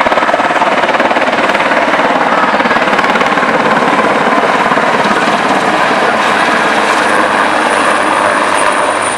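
Super Puma helicopter flying a display manoeuvre: the fast, steady chop of its main rotor, loud throughout. A thin high whine comes in about seven seconds in.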